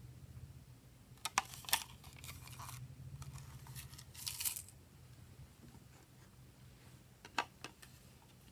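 Glossy slime being handled by hands: sharp sticky clicks and pops, with short crackling stretches as it pulls apart, over a faint steady low hum.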